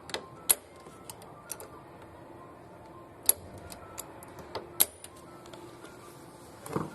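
A few sharp, separate metallic clicks and taps from hand work on a car's steering-column lock mechanism, with the ignition lock cylinder removed, over a faint steady hum.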